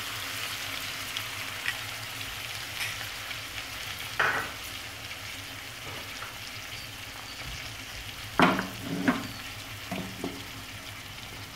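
Chicken pieces sizzling steadily as they fry in oil with ginger-garlic paste in a kadai, with a few short, louder scrapes of the metal spatula against the pan about four seconds in and again around eight to nine seconds in.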